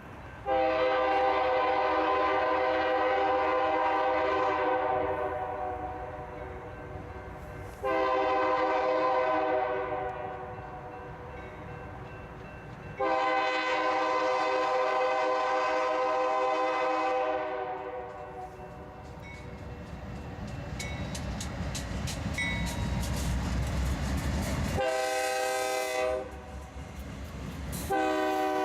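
Freight diesel locomotive's air horn sounding a series of blasts: a long one, a shorter one, another long one, then a brief one, with a new blast starting at the very end. Between the blasts the train's rumble grows, and in the last several seconds there is rapid clicking of wheels over rail joints.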